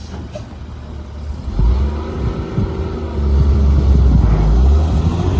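Heavy diesel engine running, stepping up sharply in loudness about a second and a half in and again a little later, its pitch rising and falling as it is revved.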